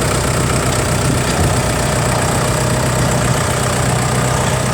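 Vintage tractor engine running steadily at low revs with a steady hum.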